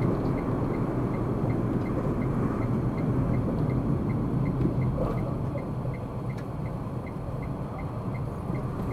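Car interior driving noise: a steady low rumble of engine and tyres, with the turn-signal indicator ticking evenly about three times a second.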